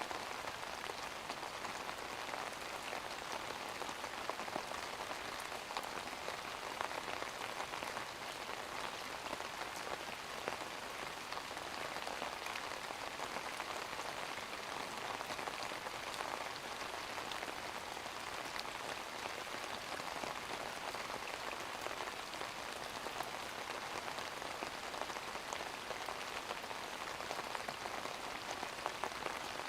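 Steady rain falling on a surface, an even hiss of many small drop patters.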